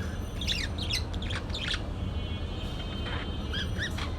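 Parakeet chirping: a run of quick, high chirps from about half a second in until nearly two seconds, then a few more near the end, over a steady low hum.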